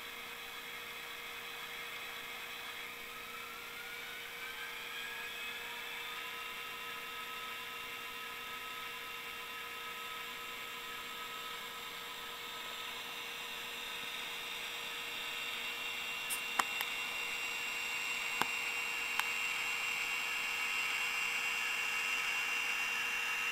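Model locomotive sound decoder playing a recorded EMD 645 diesel engine sound through tiny speakers. The engine note rises in pitch a few seconds in, then holds steady and grows louder toward the end. A few sharp clicks are heard near the end.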